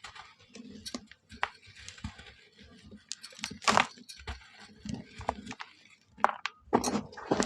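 Dry moulded shapes of mud, charcoal and red sand crumbling: irregular crunches and crackles, with a loud crunch a few seconds in and a cluster of louder crunches near the end.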